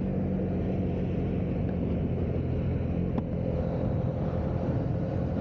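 Honda CB125R's single-cylinder 125cc engine running steadily under way, heard over wind and road noise.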